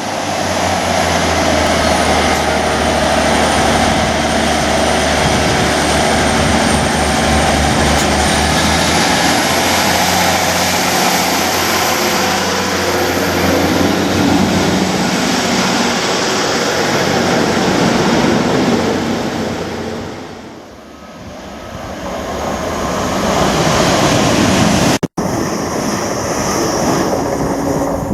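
Passenger train passing close by, a loud steady run of engine and wheel-on-rail noise with a high whine above it. It fades about three quarters of the way through, then swells again, and there is a brief break near the end.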